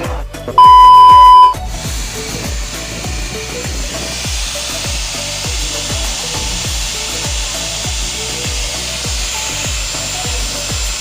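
A loud single-tone electronic beep lasting about a second, starting about half a second in, then background music with a steady beat over a steady high hiss.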